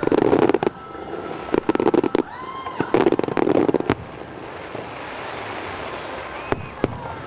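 Fireworks display: three dense clusters of loud bursts and crackle in the first four seconds. Between the second and third cluster a whistling firework gives a tone that rises and falls. Near four and six and a half seconds in come single sharp bangs.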